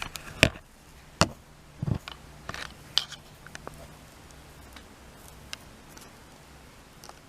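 A series of sharp clicks and knocks of parts and tools being handled, loudest in the first three seconds, then a few faint ticks.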